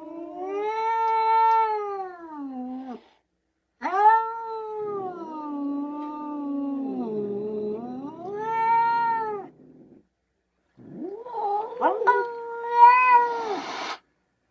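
Cat yowling: three long, drawn-out meows that rise and fall in pitch, with short pauses between them.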